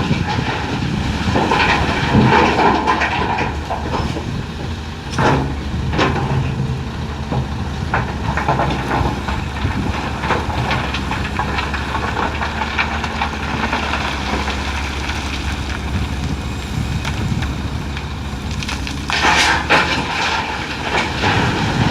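Heavy diesel engine of a Hitachi EX450LC-5 excavator running steadily under load, with crashing, rattling bursts of limestone rock dropped into a dump truck's steel bed: one at the start, two sharp knocks about five and six seconds in, and another rattling stretch near the end.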